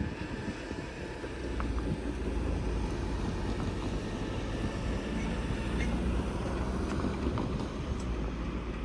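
Freight train cars rolling past: a steady low rumble with a few faint clicks from the wheels.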